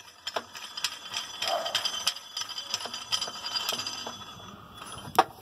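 Metal parts of a washing machine being handled: a run of light clinks and taps with a faint metallic ringing, and a sharper click near the end.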